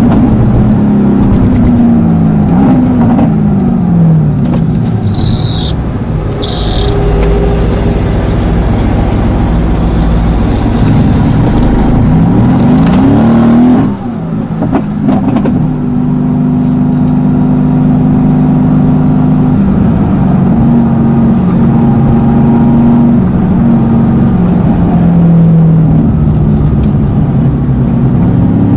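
Mercedes-AMG GT S twin-turbo V8, tuned by PP Performance, accelerating hard with its pitch rising and falling through repeated gear changes. About fourteen seconds in, it cuts off suddenly as the throttle is lifted, then runs on at fairly steady revs. There are two short high chirps about five and six seconds in.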